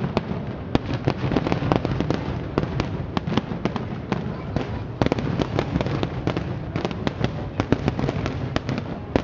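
Fireworks display in full barrage: many shells bursting in quick succession, a dense, unbroken run of bangs and crackling.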